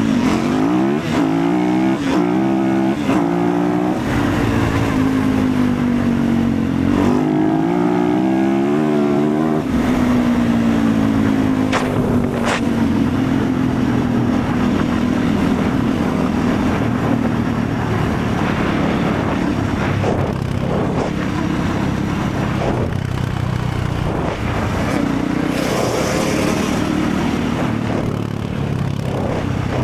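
Motorcycle engine running under way, its pitch rising and falling repeatedly with the throttle, then holding steadier.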